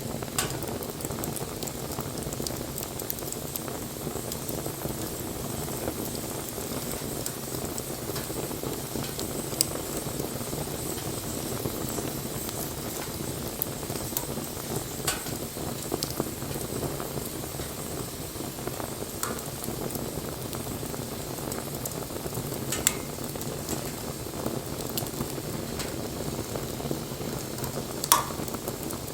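Wood bonfire burning: a steady hissing crackle with a handful of sharp pops, the loudest two a little past the middle and near the end.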